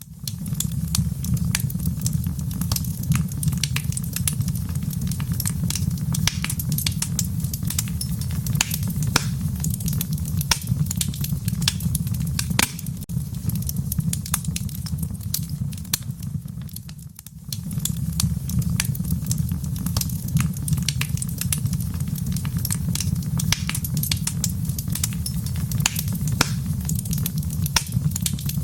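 Fire crackling in a fireplace: a steady low rumble with many sharp pops and snaps throughout. The sound dips briefly about two-thirds of the way through.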